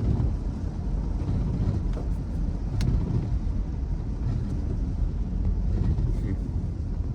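Steady low rumble of a running vehicle, with one sharp click about three seconds in.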